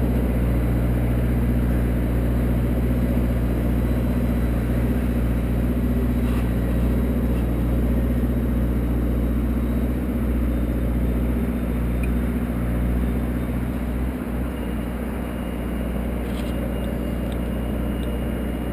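Engine of an aerial lift running steadily, a constant low hum.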